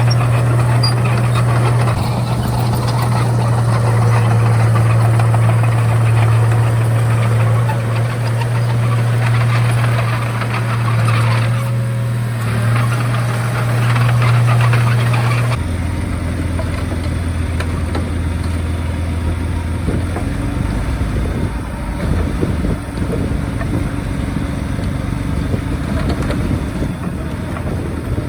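Komatsu D31A bulldozer's diesel engine running steadily under work. About halfway through, its note drops to a lower, slightly quieter pitch as the revs come down.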